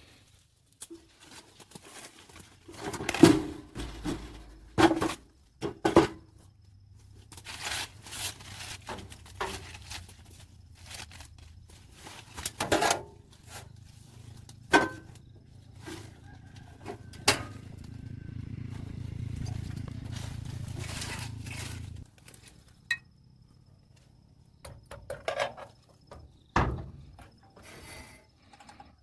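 Handling noise: a series of knocks, clatters and scrapes, with a low steady hum running under them for much of the time that grows louder and then cuts off suddenly.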